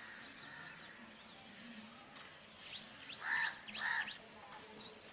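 Birds chirping: a stream of short, high chirps throughout, with two louder, harsher calls in quick succession a little over three seconds in.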